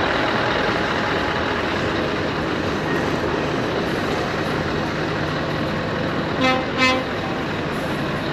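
A vehicle horn gives two short toots, about six and a half and seven seconds in, over steady truck engine noise.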